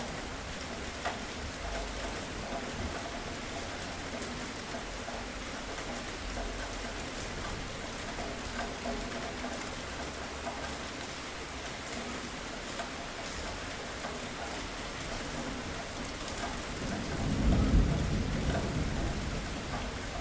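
Steady heavy rain falling on surfaces, with a low rumble of thunder that swells up near the end and then fades.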